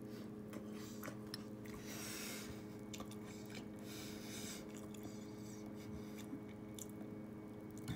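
A mouthful of Pop-Tarts Brown Sugar cereal in milk being chewed close to the microphone: irregular crunchy, wet chewing over a steady low hum.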